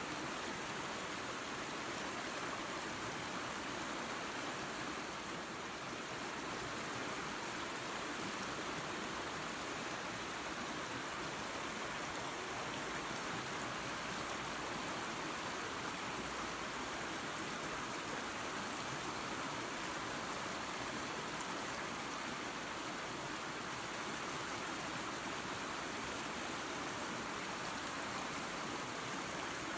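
Small waterfall spilling into a creek: a steady, unbroken rush of running water.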